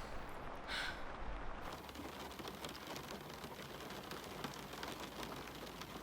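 Steady rain falling, with a brief brighter hiss just under a second in.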